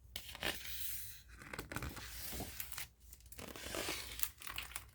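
Paper rustling and crinkling as the pages of a picture book are handled and turned, in several scraping stretches with small clicks.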